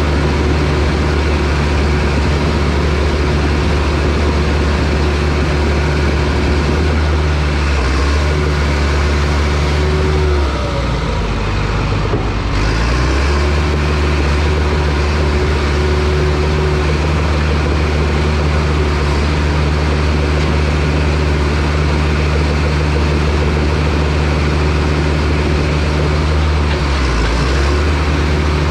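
John Deere bulldozer's diesel engine running steadily at working speed while pushing logs. Its pitch dips briefly about ten seconds in and again near the end, then picks back up.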